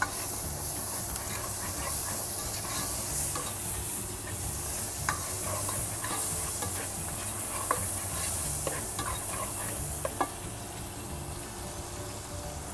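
Chopped onion, garlic and spices sizzling in oil in a stone-coated nonstick pot while a spoon stirs them round, with a few light clicks of the spoon against the pot.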